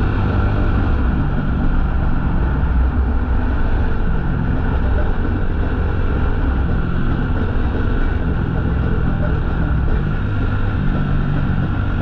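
Motorcycle engine running at a steady cruising speed while riding, with wind and road noise; the engine note shifts slightly a few times but holds steady throughout.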